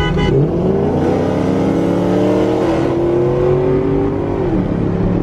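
Car engine accelerating hard on a street run, its pitch climbing steadily, dropping at an upshift about two and a half seconds in, climbing again, then falling as the throttle is lifted near the end.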